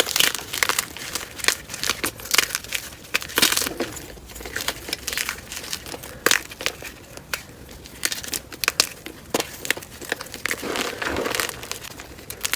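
Blocks of dyed gym chalk being crushed and crumbled by hand, a dense run of dry, irregular crunches and crackles, sped up to double speed.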